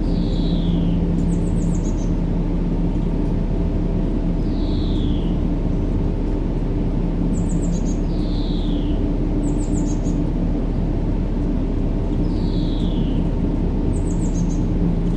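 Steady low rumbling sleep noise with a faint even hum, overlaid with birdsong. A clear falling whistle comes about every four seconds, and short high chirping trills fall in between.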